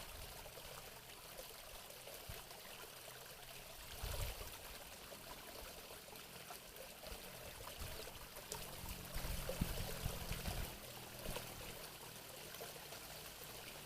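Water trickling and running steadily, with a few low rumbles swelling and fading.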